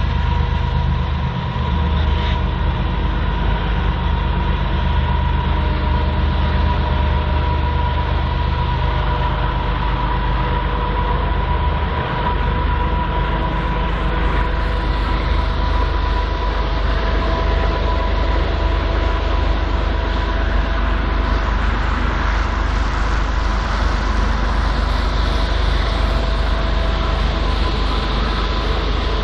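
BNSF freight train rolling by: a steady rumble of diesel locomotive and cars on the rails, with a thin steady high tone running through it.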